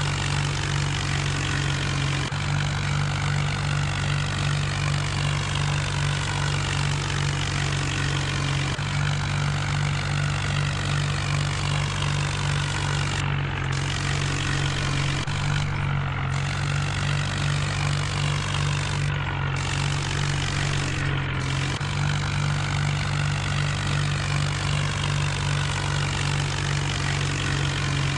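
John Deere tractor's diesel engine running steadily at a constant speed while working a rotavator.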